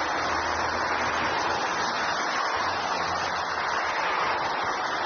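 Airbus A380 jet engines on approach: a steady, even rushing roar with a faint low hum underneath.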